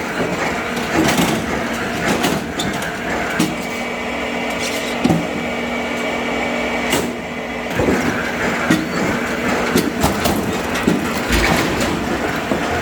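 A machine running steadily while oak logs are cut and split for firewood, with repeated sharp knocks and cracks of the wood. The hum is strongest from about three and a half to seven seconds in.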